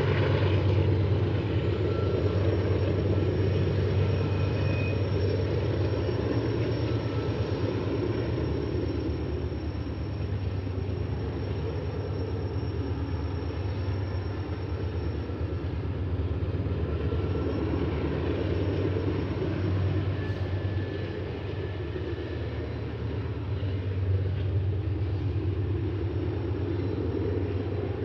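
Loaded grain train of covered hopper cars rolling slowly around a curve: a steady low rumble with a deep drone, and faint thin high wheel squeals that come and go.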